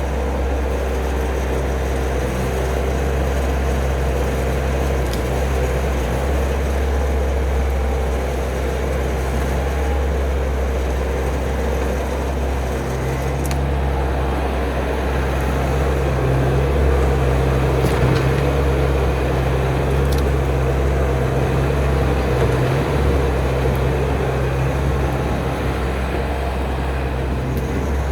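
Skid steer's engine running steadily, a little louder for a few seconds in the middle, with a few faint knocks.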